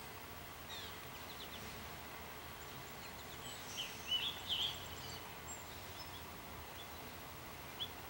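Songbirds chirping: a few short high calls about a second in, then a louder quick cluster of chirps around the middle and a single chirp near the end, over a steady outdoor hiss.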